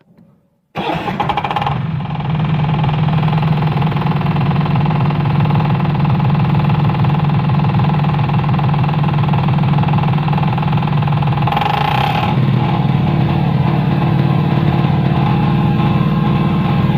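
An engine starts abruptly about a second in and then runs steadily at an even speed.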